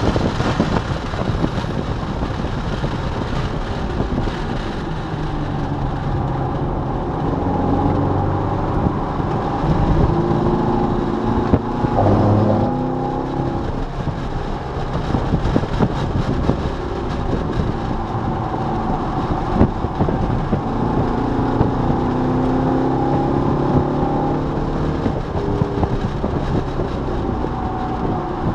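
C5 Corvette Z06's LS6 V8 heard from inside the cabin at track speed, its pitch climbing and falling repeatedly as the car accelerates and slows, over steady wind and road noise.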